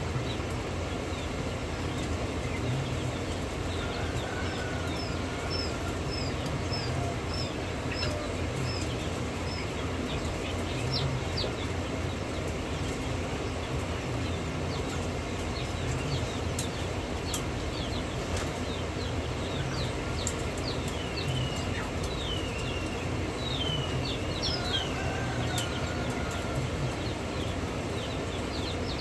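Chicks peeping in short, high, falling chirps, in a quick run early and again more densely near the end, over a steady low rumble.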